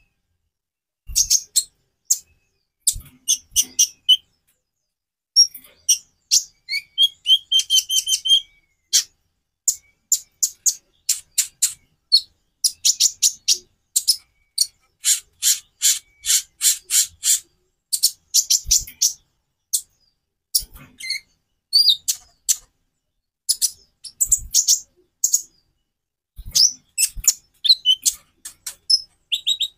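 Konin (kolibri ninja) sunbird singing: quick, high-pitched chips and twittering phrases in bursts, with a dense, fast trill about halfway through. A few soft low knocks come in between the phrases.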